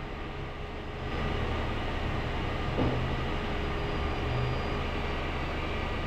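Citroën C5 hydropneumatic suspension pump running steadily while the system raises the car and corrects its ride height, a low hum that gets a little louder about a second in, with one brief tick near the middle.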